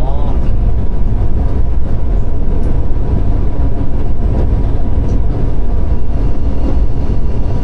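Steady loud rumble inside a diesel train's driver's cab while running on the line: engine and wheels on rail, with a thin steady tone above the rumble.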